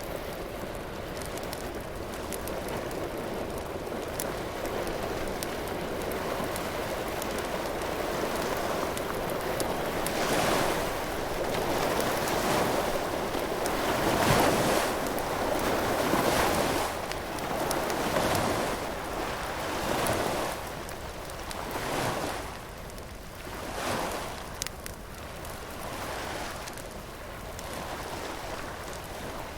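Surf breaking on a beach: a steady rush that, about a third of the way in, turns into surges swelling and falling every couple of seconds, with the sharp pops and snaps of a crackling bonfire scattered over it.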